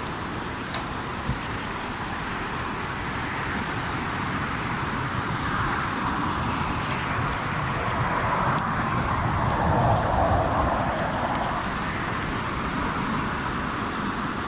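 Wood fire with a few sharp crackles and pops over a steady background rumble, while a vehicle passes by, swelling and dropping in pitch to its loudest about ten seconds in, then fading.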